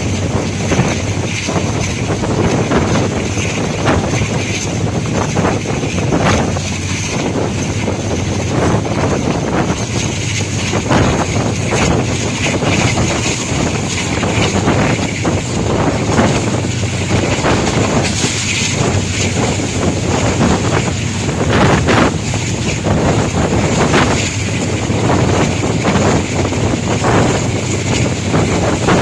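Wind rushing loudly over the microphone from a moving passenger train, with the rumble of the coaches and irregular clicks of the wheels running over the track.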